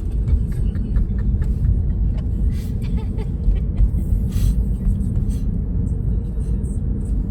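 Steady low road rumble of a moving car, with scattered faint clicks and rattles.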